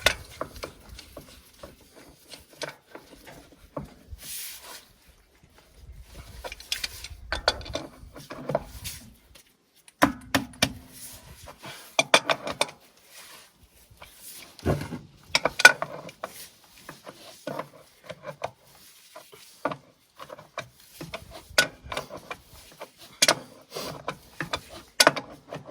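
Irregular metallic clinks, knocks and scrapes of an adjustable wrench working on the 19 mm drain plug of an oil filter housing, loosening it so the filter can drain.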